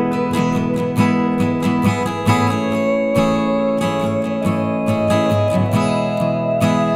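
Background music led by strummed acoustic guitar with steady chords.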